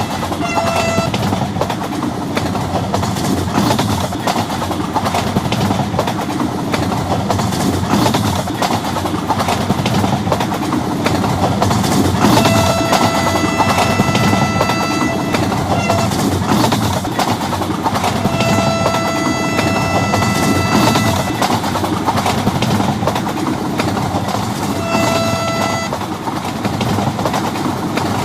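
Vande Bharat Express running at high speed, a steady rumble and rattle of the train on the track. A train horn sounds several times over it, with three long blasts of a few seconds each.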